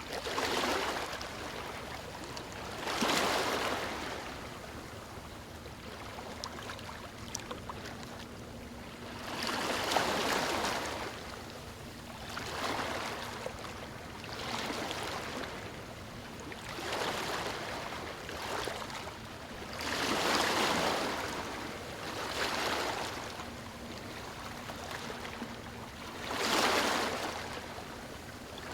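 Small waves breaking and washing over a stony shore, each wave swelling and fading, about nine in all at uneven gaps of two to three seconds or more.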